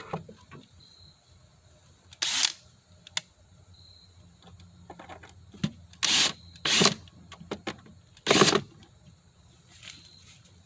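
Hand-tool work on wood: four loud short scraping strokes, about a third of a second each, coming irregularly rather than in a steady rhythm, among small knocks and clicks of wood and tools being handled.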